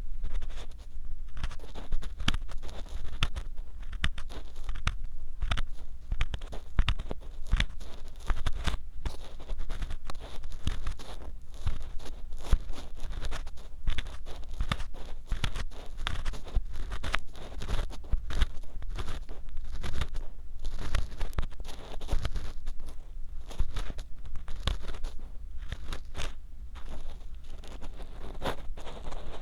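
An ear pick scraping and crunching inside the silicone ear of a 3Dio binaural microphone: dense, continuous rough scratching broken by many sharp clicks, close and loud.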